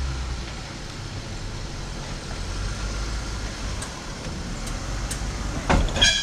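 Jeep Wrangler on big off-road tyres crawling a rocky trail, its engine running low and steady, with a few sharp knocks and a brief louder sound just before the end.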